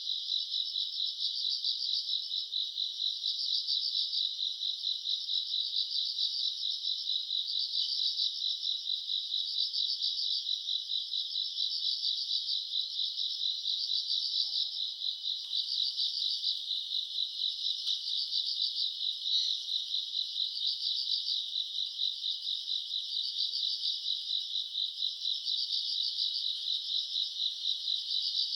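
A dense night chorus of grass insects such as crickets, chirping without a break in a fast, even pulse. The chorus swells and fades about once a second and is high-pitched.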